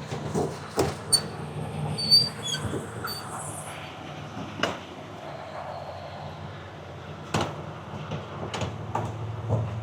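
Semi-truck engine idling steadily, with scattered clicks and knocks and a few brief metallic squeaks from the rig being handled around two to three seconds in.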